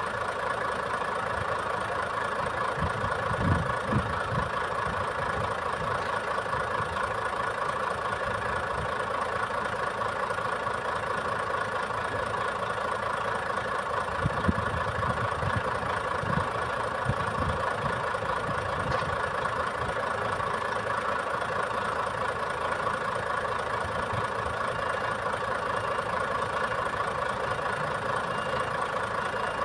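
Diesel engine of a boom truck idling steadily, with a few brief low rumbles about three seconds in and again around the middle.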